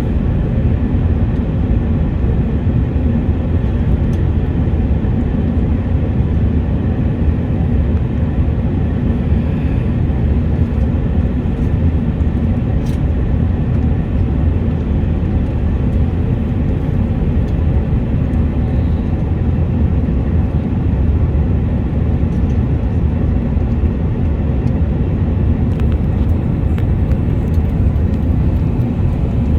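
Steady low rumble inside the cabin of an Airbus A380 in flight: engine and airflow noise, even in level throughout.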